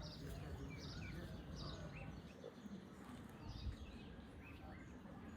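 Small birds chirping repeatedly over a low outdoor rumble, with one dull bump about two-thirds of the way through.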